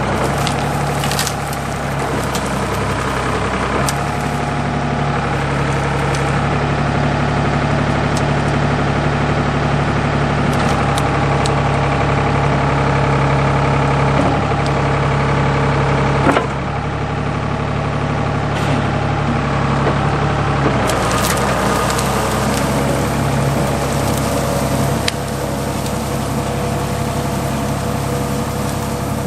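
Ford 555 backhoe's diesel engine running steadily as the machine works, its note and load shifting a few times, with occasional knocks and clanks.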